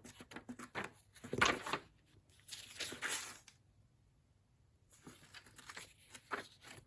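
Pages of a large antique book being turned and handled: paper rustling and brushing in irregular spells, with a soft knock about a second and a half in.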